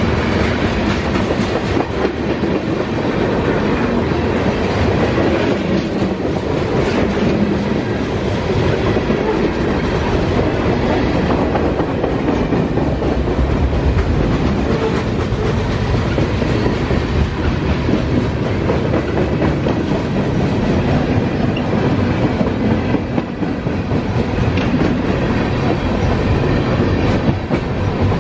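Freight train cars rolling past close by: a steady loud rumble of steel wheels on rail with clickety-clack over the rail joints.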